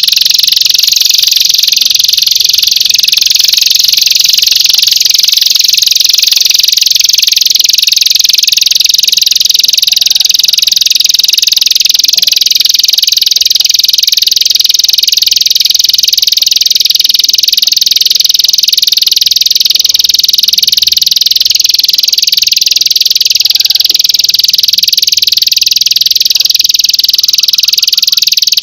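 Masteran recording for training songbirds: a loud, continuous, high-pitched buzzing trill that flutters rapidly and never pauses.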